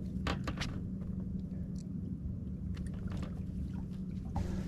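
Boat motor humming steadily, with a few light clicks and taps about a third of a second in and again around three seconds in.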